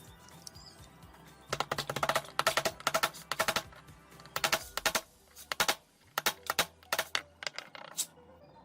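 Rapid runs of sharp clicks and taps in quick clusters, starting about a second and a half in and thinning out near the end, over background music.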